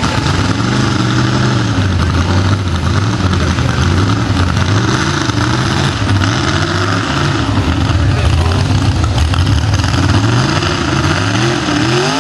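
572 cubic-inch big-block Chevy V8 in a mud truck, revving up and down repeatedly, its pitch rising and falling every second or two.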